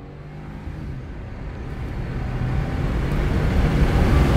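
Car engine pulling hard at high revs in a full-throttle acceleration run, heard from inside the cabin. Engine, road and wind noise grow steadily louder as the car gathers speed.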